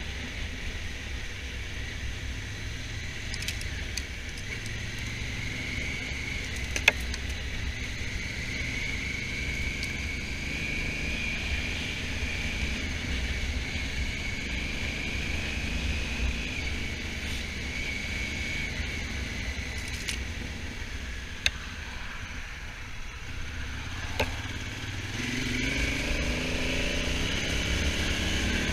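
Honda Africa Twin motorcycle on the move, its engine running under steady wind rush on the microphone. A few sharp clicks sound along the way, and in the last few seconds the engine note rises as the bike accelerates.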